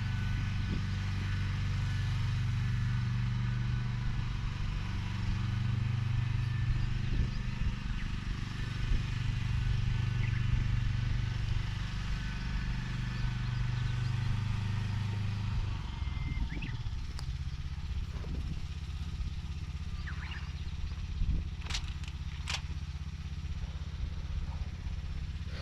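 Small engine of a mechanical vegetable transplanter running steadily. About sixteen seconds in, its note changes to a lower, rougher run, with a few short clicks and rattles after it.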